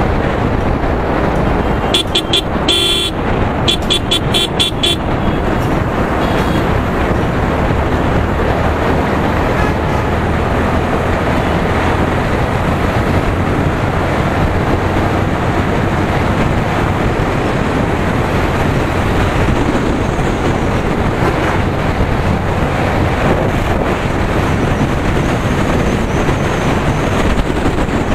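Wind buffeting the microphone over the steady noise of a motorcycle ride. About two seconds in, a vehicle horn toots several short times with one longer blast, ending by about five seconds.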